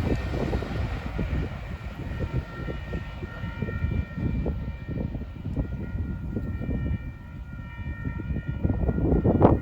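Union Pacific freight train's cars rolling past, a continuous low rumble with rapid clatter of wheels over the rails. In the middle, a steady high chord of several tones holds for about six seconds, and the clatter grows louder near the end.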